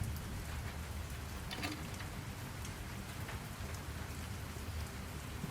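Steady rain falling: an even hiss with a constant low rumble beneath and a few sharper drop-like taps.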